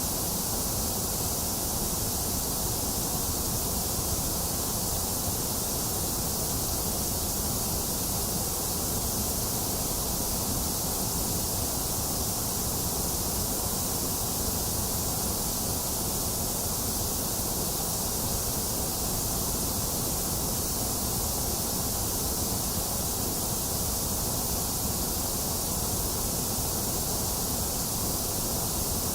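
Box fan running together with steady rain: an even, unchanging rush with a bright hiss on top and a low fan rumble beneath.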